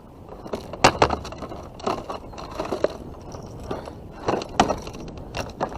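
Scattered sharp clicks, knocks and rustling of a catfish and fishing gear being handled in a kayak while the fish is weighed.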